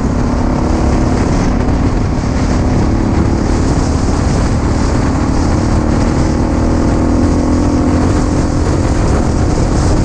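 Suzuki DR-Z400's single-cylinder four-stroke engine running at freeway speed, its note creeping up as the bike speeds up. Heavy wind rush on the helmet or bike microphone sits underneath.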